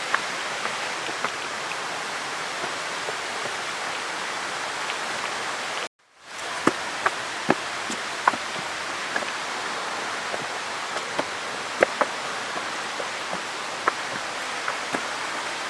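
Steady rushing of flowing water at an old dam, an even hiss. It drops out abruptly about six seconds in, returns within a second, and is then overlaid by scattered sharp clicks and snaps.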